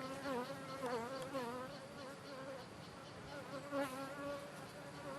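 Honey bees buzzing around an open hive: a continuous buzz whose pitch wavers and swoops as individual bees fly close past.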